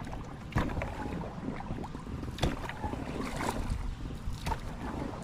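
Wind buffeting the microphone and water around a Sea Eagle inflatable kayak, with a few sharp knocks from the boat spread through.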